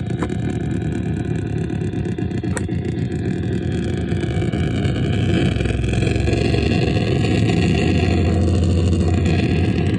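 Cosmic Lasher Infinite glitch noise machine putting out a dense, continuous low noise with faint wavering tones above it. It grows somewhat louder about halfway through, with a couple of short clicks in the first few seconds.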